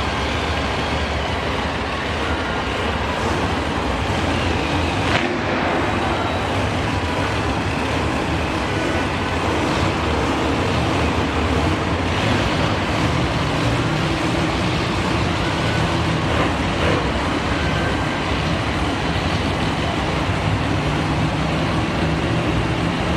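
Monster truck engine running with a loud, steady drone that swells slightly in the second half.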